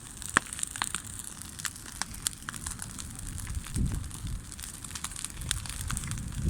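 Campfire burning, with irregular sharp crackles and pops from the burning wood over a steady hiss. There are low rumbling swells about four seconds in and again near the end.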